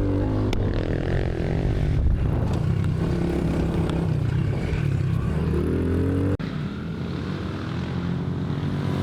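Dirt bike engine running on the track, with the pitch climbing as it revs up about five and a half seconds in, a sudden break about six seconds in, then running lower.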